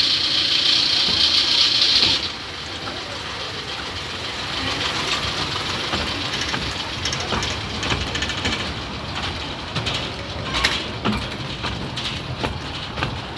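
Miniature railway train: a loud hiss that cuts off suddenly about two seconds in, then a quieter steady rumble with scattered knocks and rattles.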